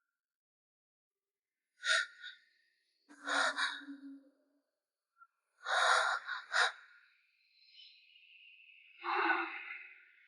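A person gasping and breathing hard in short breathy bursts, four of them after about two seconds of silence. A faint thin high tone runs under the last few seconds.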